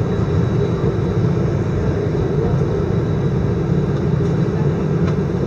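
Steady low rumble of an Airbus A319 heard from inside the cabin: engine and airflow noise as the airliner rolls on the ground after landing.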